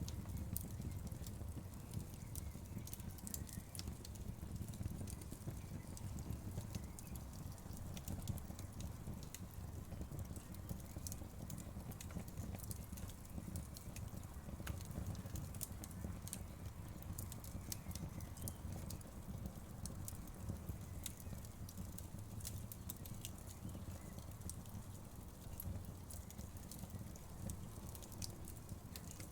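Wood fire crackling: frequent small sharp pops and snaps over a steady low rumble of the flames.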